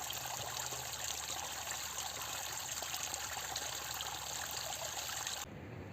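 Water trickling and running in a steady rush that cuts off suddenly near the end.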